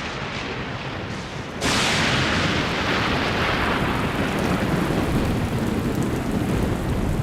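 Heavy downpour of a thunderstorm with thunder rumbling low underneath; about a second and a half in the rain noise suddenly gets louder and brighter and stays that way.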